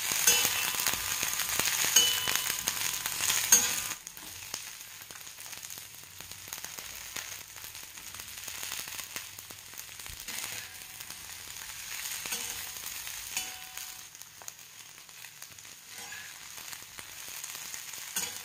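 Garlic, ginger, chillies and onion sizzling in hot ghee in a wok, with a spatula stirring them now and then. The sizzle is loudest for the first four seconds or so, then settles to a softer, steady frying.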